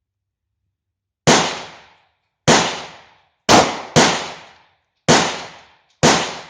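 Six 9mm shots from a P.08 Luger pistol in slow, uneven aimed fire, each a sharp crack with a short echoing tail. Two of the shots come close together near the middle.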